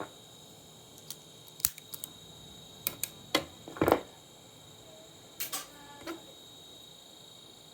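Scattered sharp clicks and small knocks of hard parts being handled during the disassembly of an old monitor, over a faint steady high-pitched tone.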